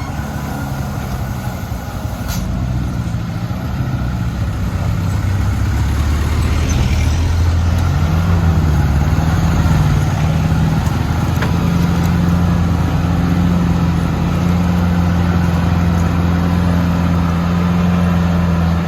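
Mitsubishi Canter truck's diesel engine running under a heavy overloaded sand load, a low drone that grows louder over the first several seconds, wavers in pitch briefly near the middle, then holds steady.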